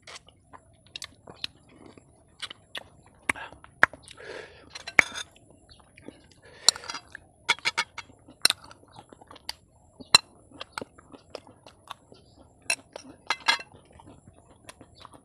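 Close-miked mukbang eating: chewing and lip-smacking with many sharp, irregular mouth clicks, and a few longer noisy stretches in the middle.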